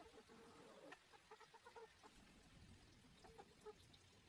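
Chickens clucking faintly, a few short calls in scattered clusters.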